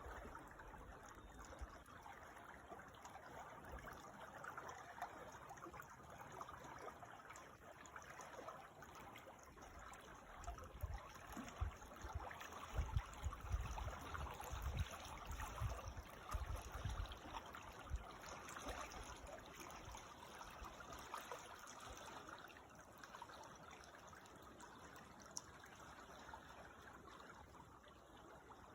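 Creek water flowing and trickling, a faint steady rush, with soft low rumbles coming and going in the middle.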